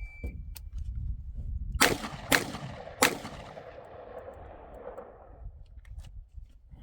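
Three rifle shots from an AR-style rifle, the first two about half a second apart and the third a little later, followed by a rolling echo that fades over about two seconds. A low rumble of wind on the microphone runs underneath.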